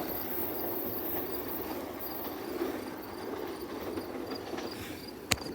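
SEPTA Silverliner IV electric commuter train running along the track, a steady rumble that eases slightly, with faint insect chirps repeating high above it.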